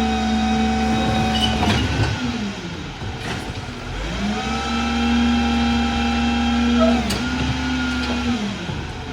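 Garbage truck's diesel engine running at raised revs, the way a rear loader revs up to drive its hydraulic packer. It drops back about two seconds in, revs up again around four seconds, and falls away near the end, with a few sharp clanks in between.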